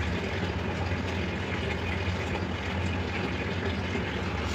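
Steady low hum with a faint hiss, even throughout with no distinct events.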